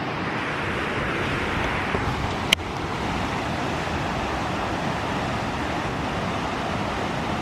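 Steady rushing of water at a small dam, with a single sharp click about two and a half seconds in.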